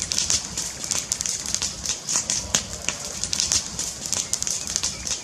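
Wood fire crackling, with dense irregular pops and snaps over a steady hiss.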